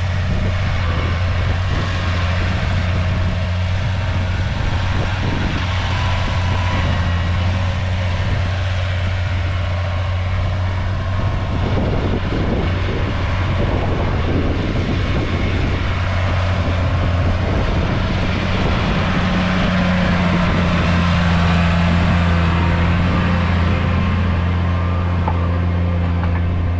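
A heavy diesel engine running steadily under load, a low drone with a second, higher hum that strengthens a little about two-thirds of the way through.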